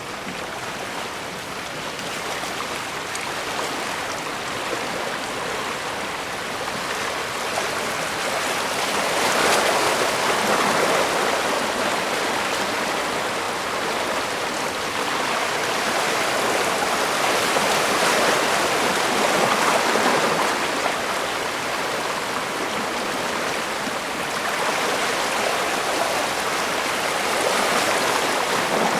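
Bay water washing against the shore: a steady rush that swells louder about every nine seconds as waves come in.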